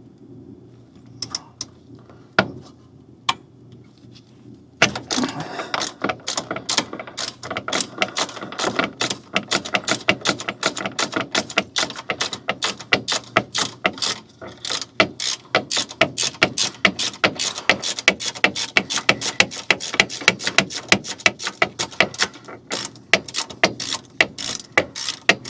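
Hand ratchet wrench clicking as a nut is run off. A few scattered clicks come first, then about five seconds in a steady, rapid clicking of roughly three to four clicks a second begins and keeps on.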